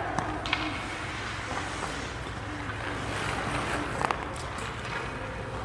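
Steady background noise of a large indoor hall with a low hum, broken by a couple of short sharp knocks, one about half a second in and one about four seconds in.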